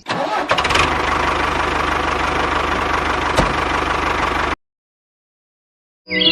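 Tractor engine idling steadily, then cutting off abruptly about four and a half seconds in.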